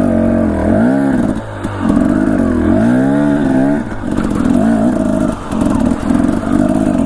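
Dirt bike engine running on the trail, its revs rising and falling with the throttle: two climbing revs in the first few seconds, then shorter on-off bursts of throttle.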